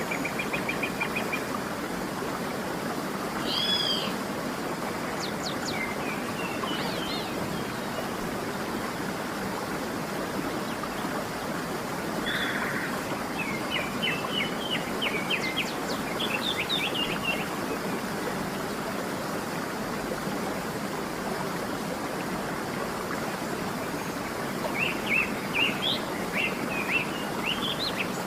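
Steady rushing of a waterfall with birds chirping over it in short, scattered phrases, busiest about halfway through and again near the end.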